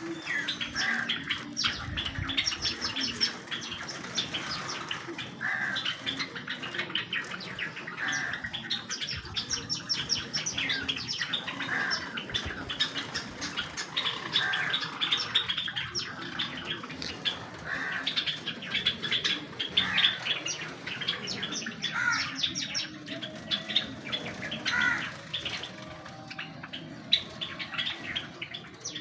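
A large colony of Java sparrows chirping, with many short calls overlapping without pause.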